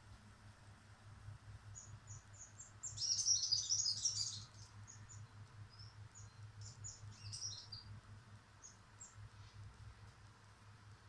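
Small birds chirping in quick, high twitters. A dense, loud flurry comes about three seconds in and lasts just over a second, then scattered chirps thin out.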